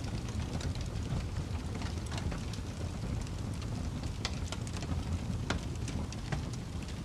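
Wood fire crackling in a fireplace: irregular sharp pops and snaps over a steady low rumble of the burning logs, with a few louder pops.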